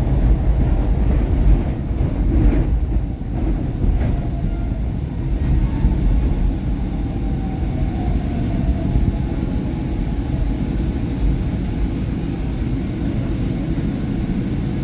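SEPTA Market-Frankford Line subway car heard from inside, with a steady low rumble of the car running on the rails. A faint whine drifts slightly lower through the middle, as heard when the train slows before its doors open at the station.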